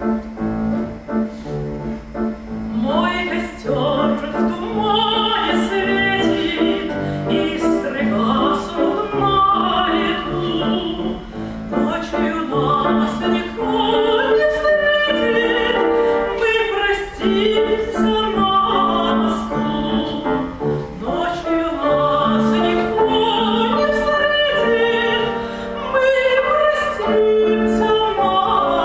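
A woman singing a Russian romance in classical style with vibrato, accompanied by piano. The piano plays alone for about the first three seconds before the voice comes in.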